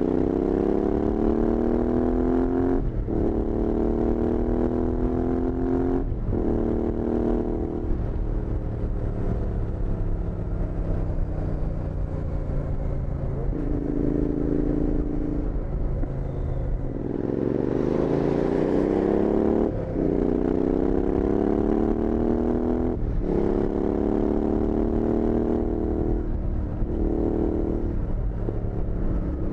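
Royal Enfield Interceptor 650's 648 cc parallel-twin engine through Powerage Performance slip-on exhausts, pulling through the gears: the note rises, dips sharply at each upshift and climbs again. Mid-way it holds a steady note, then falls low and picks up again for a second run of upshifts.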